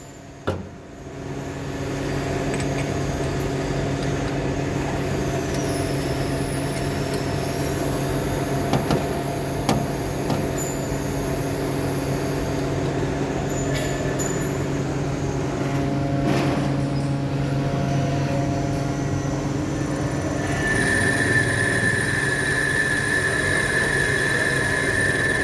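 A workshop machine running steadily with a hum and several held tones, coming up to speed about a second in. A high, steady squeal joins near the end.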